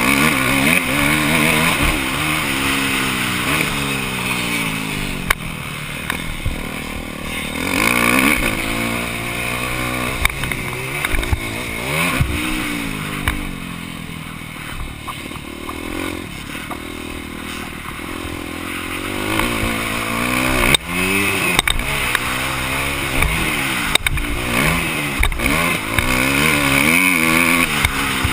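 Motocross bike engine heard from on board, revving up and dropping back again and again through the ride as the throttle opens and closes and gears change. A few sharp knocks are scattered through it.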